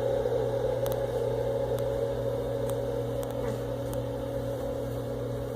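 Steady hum of electric shop machinery, a low drone with a higher steady whine, unchanging in level.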